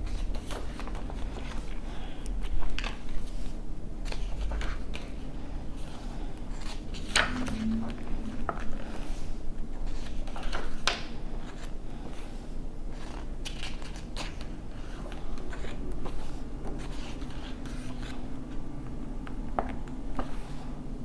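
Paper pages of a small book being turned and handled, with irregular soft rustles and crisp paper ticks, a few sharper ones about a third and halfway through.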